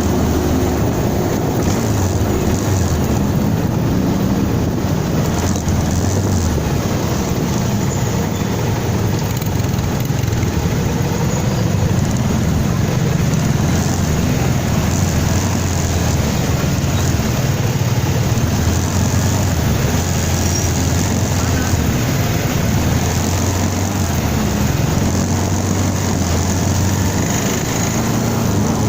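Kawasaki ZX-25RR inline-four engine running at a steady pace while riding, with wind noise over the microphone.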